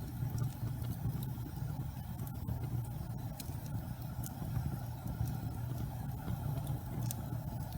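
Wood fire burning in a fireplace: a steady low rumble with a few sharp crackles and pops scattered through it.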